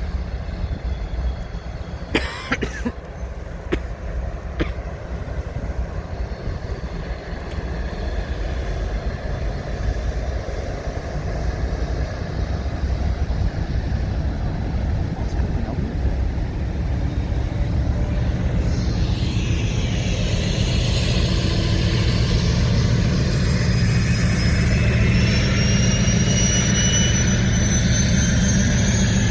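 A train moving on the tracks close by: a steady low locomotive rumble that grows louder, with a couple of sharp clicks about two seconds in. From about eighteen seconds a rail hiss builds, with a high whine that climbs slowly in pitch.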